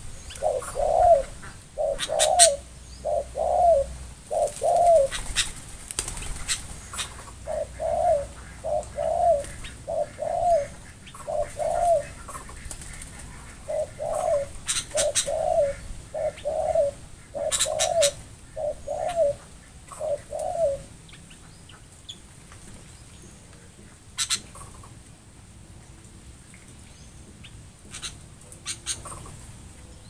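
A bird in an aviary calling in a long series of short, low notes, about one a second, which stop about twenty seconds in. Sharp high chirps from small birds are scattered through it.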